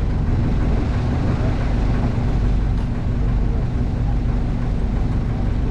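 A boat's motor running steadily with a low, even hum, over water and wind noise.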